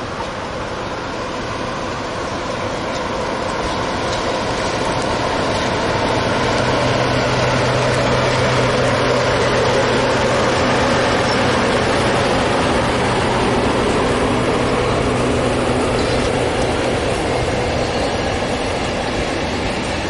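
Diesel train running through the station, a steady engine hum under wheel and rail noise that swells to a peak midway and eases slightly after.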